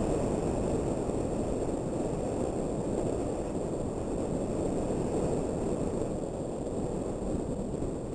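Steady wind rushing over the action camera's microphone while riding a mountain bike, a dull, even roar with no tones or beat.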